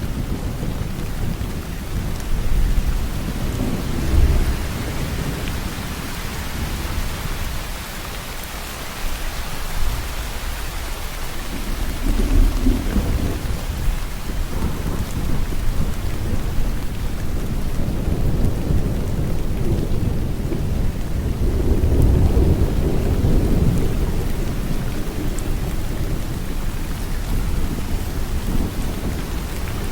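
Steady heavy rain falling, with low thunder rumbling in swells several times: a few seconds in, near the middle and again about two-thirds of the way through.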